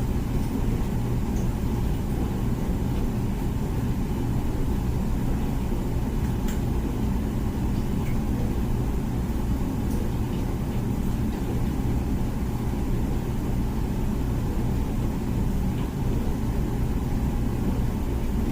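Comfee dishwasher running mid-cycle: a steady low motor hum and rumble that holds even throughout.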